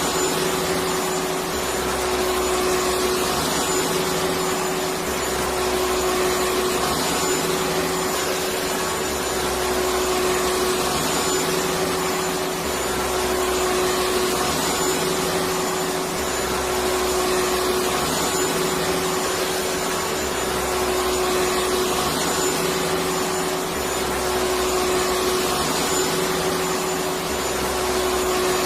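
Vacuum cleaner running steadily: a dense rush of air with a steady mid-pitched whine, and a deeper hum that swells and drops every few seconds.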